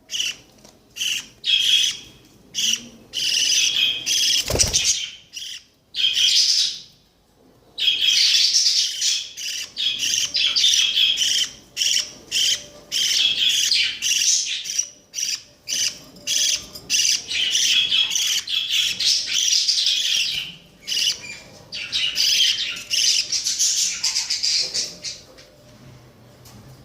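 Budgerigar chicks giving harsh, rapidly repeated begging calls, asking to be fed, in bursts from a fraction of a second to several seconds long with short gaps between. A single brief thump comes about four and a half seconds in.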